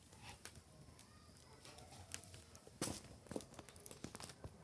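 Faint, scattered crackles and clicks, a few sharper ones in the second half, over a quiet background.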